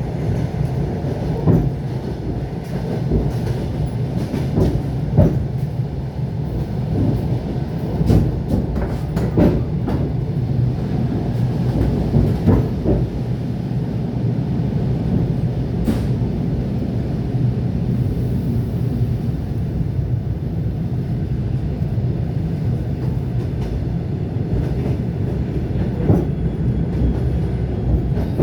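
ET2 electric multiple unit running along the track: a steady low rumble from the wheels and carriage, with scattered sharp knocks from the wheels crossing rail joints, more frequent in the first half.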